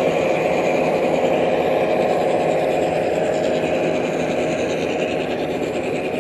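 Model train running on a layout: a steady motor hum and wheel-on-rail noise, slowly getting quieter.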